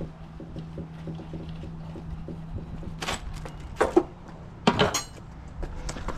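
Metal clanks and clinks of tools and engine parts being handled during a motorcycle engine teardown: a few sharp ringing strikes about three, four and five seconds in, over a low steady hum that stops about three seconds in.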